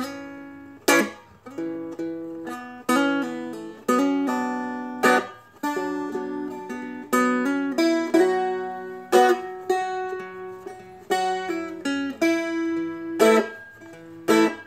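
A Seagull Merlin, a four-string dulcimer-style instrument, played with picked melody notes ringing over its drone strings. Every second or two comes a sharp downstroke of the fingernails across the strings, which marks the accent notes.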